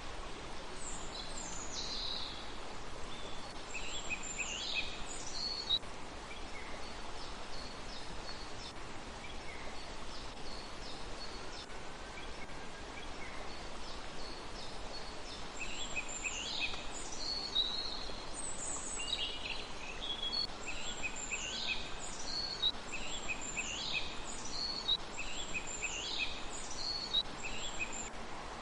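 Small birds calling in quick series of short, high chirps over a steady hiss. The chirps come in a cluster in the first few seconds and more densely from about halfway through.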